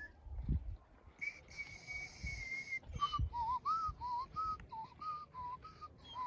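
A person whistling: one held note, then a run of about ten short, quick lower notes. Low dull thumps sound underneath.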